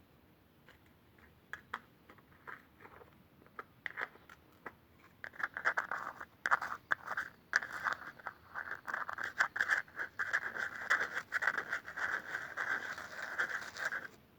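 An object being scratched and tapped for ASMR: scattered clicks and taps at first, then from about five seconds in a dense, fast scratching that stops suddenly just before the end.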